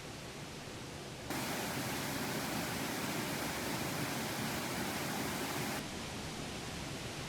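Steady rushing noise with no distinct events; it jumps louder and brighter about a second in and drops back near the end.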